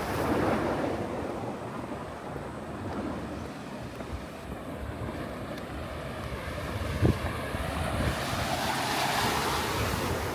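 Wind gusting over the camera's microphone, a rushing noise with a buffeting low rumble that swells near the start and again near the end. There is one short thump about seven seconds in.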